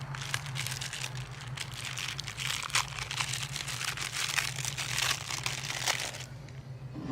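Crinkling and crumpling of packaging as a microwave popcorn bag is handled and opened, dense and irregular, easing off near the end, with a steady low hum underneath.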